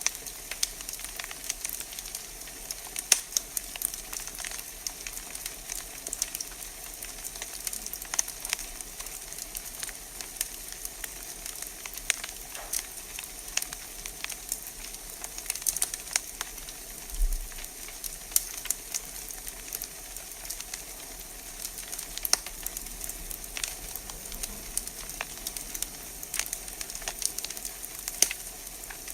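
Wood fire crackling in a fireplace: a steady hiss with irregular sharp pops and snaps, a few louder than the rest.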